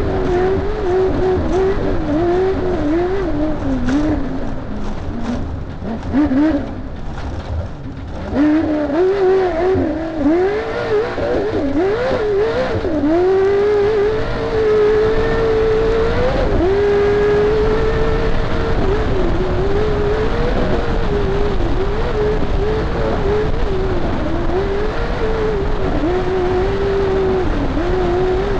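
Race car engine running hard, heard from inside the car. Its pitch rises and falls continually as the throttle comes on and off. It sags with a few knocks around six to eight seconds in, then climbs higher and drops off sharply a little past halfway.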